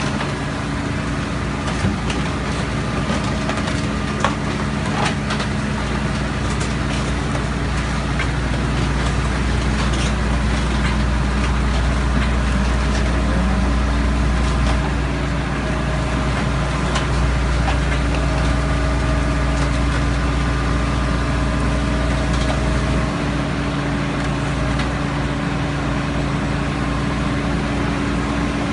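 Heavy diesel engine running steadily, with a few sharp metallic clicks and knocks in the first half.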